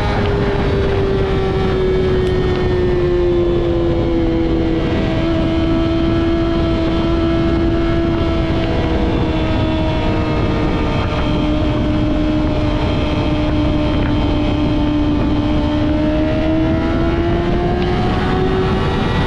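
Yamaha R6's inline-four engine running at high revs through a Two Brothers full-system exhaust while riding, its pitch easing slowly down and rising again near the end. Wind rushes over the microphone underneath.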